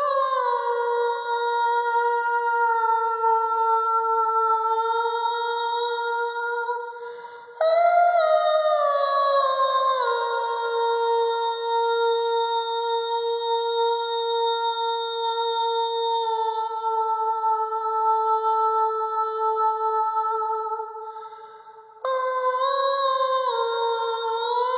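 A soprano voice singing wordless, long sustained notes with no words, each sliding slightly down in pitch at its start and then held steady. A new note begins just before 8 seconds in and another about 22 seconds in, after brief pauses for breath.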